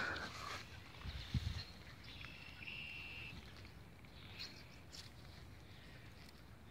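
Faint birds calling: a few short high chirps and one briefly held note, over quiet outdoor background. A soft low bump about a second in.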